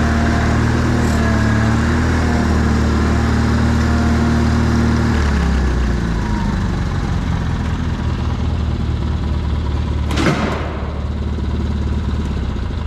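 Old tractor engine running steadily; its note drops a little about five seconds in. A single sharp clunk sounds about ten seconds in.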